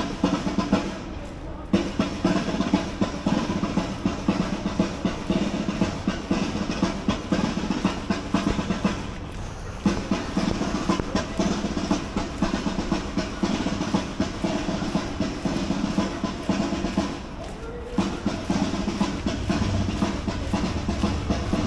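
Parade band drums playing rapid snare-drum rolls over bass drum, pausing briefly three times.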